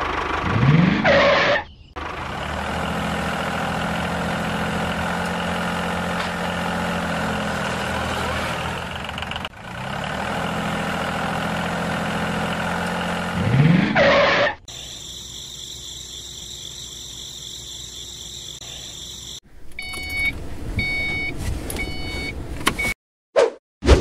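Tractor engine running steadily, with a rising rev about a second in and another about two-thirds of the way through, each cut off sharply. A quieter steady whine with a thin high tone follows, then a few short repeated beeps near the end.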